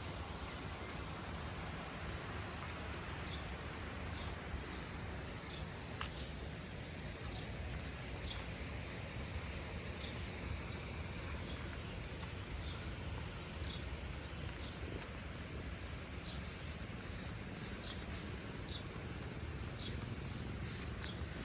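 Outdoor nature ambience: a steady background hiss with short, high bird chirps repeated every second or so, thickening near the end.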